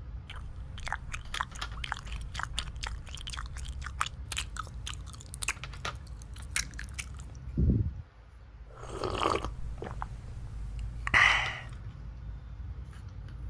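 Small plastic toy-kitchen pieces and packaging handled up close: a run of quick, crisp clicks and crackles, then a dull thump a little past halfway and two short rustling scrapes near the end.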